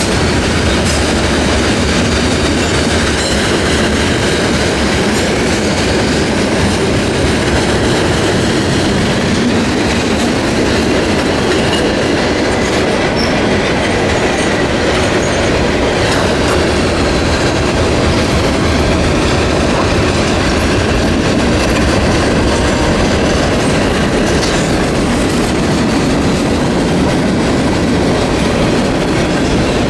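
Long freight train of boxcars, hoppers and tank cars rolling past at steady speed, its wheels on the rails making a continuous, even noise. A faint high wheel squeal runs through the middle.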